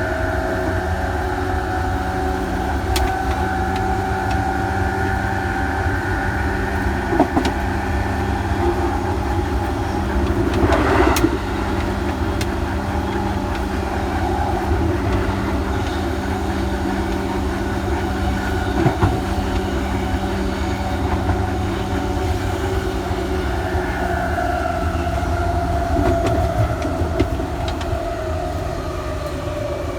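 Electric train running with one motor unit cut out: a steady rumble under a motor whine of several tones, which slide down in pitch near the end as the train slows. A few single knocks from the running gear are heard along the way.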